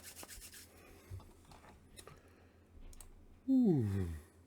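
Faint scattered clicks and taps of things being handled on a tabletop, likely comic books in plastic bags and boards being set out. Near the end comes a short, louder human voice sound without words that falls in pitch.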